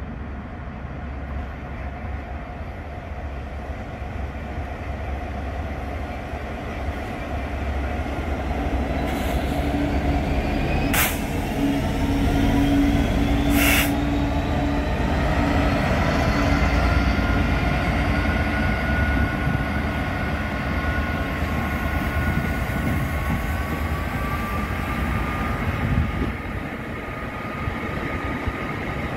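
Freightliner class 66 diesel locomotive hauling a freight train past at close range. Its two-stroke V12 engine drones as it goes by, with two sharp clanks close together. The wagons then rumble past with a thin squealing from their wheels that rises slowly in pitch.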